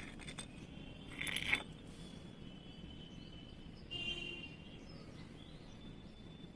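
Baby parrot giving short high-pitched calls: the loudest about a second in, another near four seconds.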